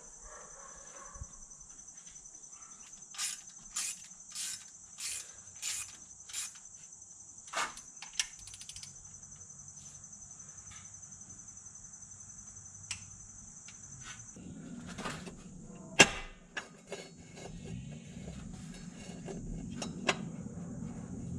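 Crickets chirping in a steady high trill, with a quick run of short sharp clicks or scrapes a few seconds in and scattered sharp knocks later, the loudest about three-quarters of the way through.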